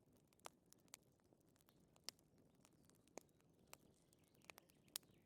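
Faint wood fire crackling, with irregular sharp pops and snaps over a soft low hiss.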